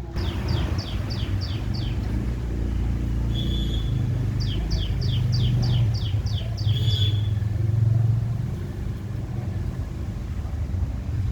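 A bird calling two quick runs of short falling notes, about four a second, with a couple of brief held notes between. Under it all runs a steady low rumble, the loudest sound.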